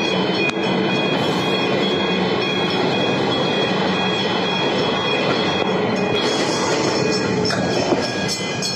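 Electric suburban train running past a level crossing at close range, with steady high-pitched tones over the noise of the wheels on the rails. About six seconds in the sound shifts and turns brighter.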